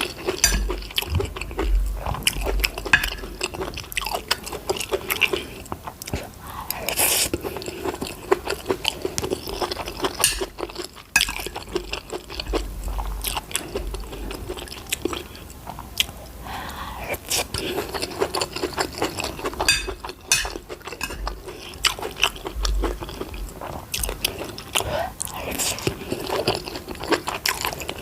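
A person chewing and biting into a meal of stir-fried rice, fried goat meat, prawns and fried plantain close to the microphone: continuous wet chewing with crunches and mouth clicks.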